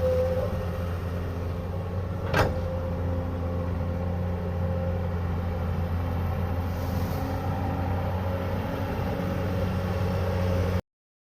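Excavator's diesel engine running steadily with a low drone, a single sharp click about two seconds in. The sound cuts out completely near the end.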